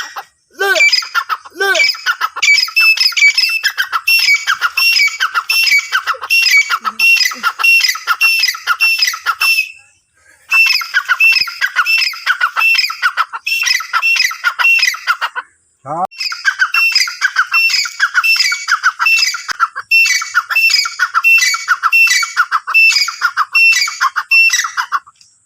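Grey francolin (teetar) calling loudly: long runs of rapidly repeated, shrill calls, broken by short pauses about ten and sixteen seconds in, with a brief falling note just before the last run.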